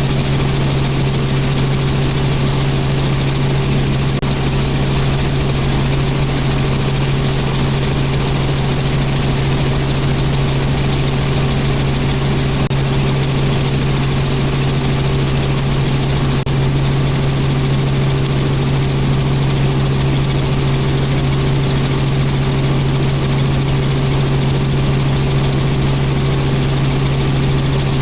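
Robinson R44 helicopter in steady flight: an even, unchanging drone of piston engine and rotor, with a strong low hum and a fainter higher tone over a wash of noise.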